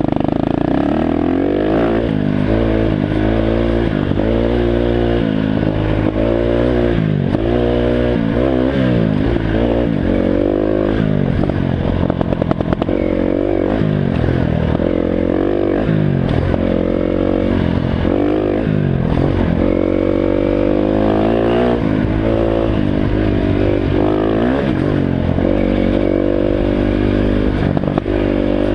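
Dirt bike engine being ridden, its pitch rising and falling about once a second as the throttle is worked on and off, with some clatter mixed in.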